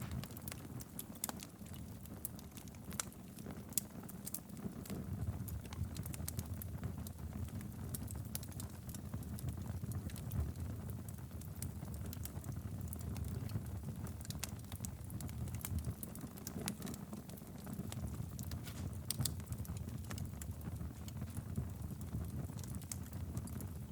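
Wood fire burning steadily in a fireplace, with a low rumble of flame and frequent irregular crackles and pops.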